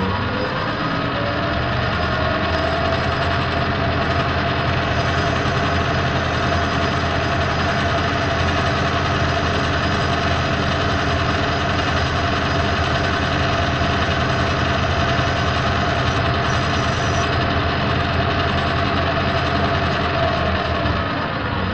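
Metal lathe running steadily through a turning pass: the motor and gearing spin up just after the start, hold a steady whine with a rumble underneath, and wind down near the end.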